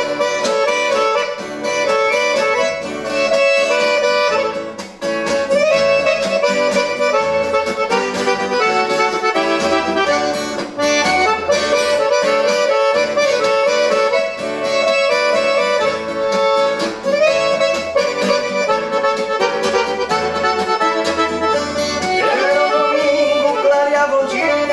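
Piano accordion (gaita) playing an instrumental break in a traditional gaúcho rodeo song, the melody carried over a rhythmic bass.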